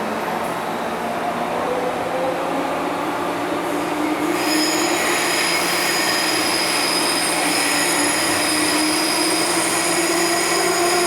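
MTR M-Train metro train running, heard from on board: steady running noise with a motor whine that slowly rises in pitch as the train gathers speed, joined about four seconds in by a set of high, steady whistling tones.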